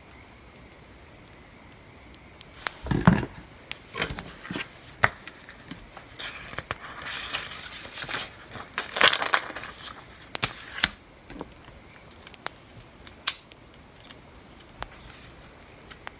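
Paper and stationery being handled at a desk: a run of sharp clicks and knocks with paper rustling, from about three seconds in to about eleven seconds in, over a steady faint background.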